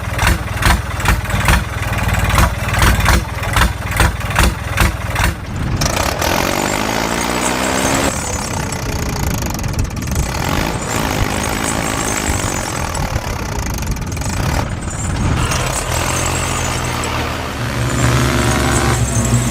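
Heavy vehicle engine, tractor-like: a rhythmic chugging of about two to three beats a second for the first five seconds or so, then a steadier run with revs rising and falling several times.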